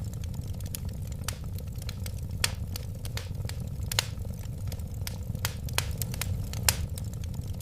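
Wood fire burning, with irregular sharp crackles and pops over a steady low rumble of the flames. Two louder pops come about four seconds in and near the end.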